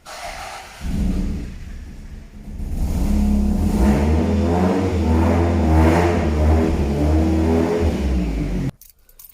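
Toyota MR2's engine running, its note getting louder about three seconds in and then stopping abruptly near the end.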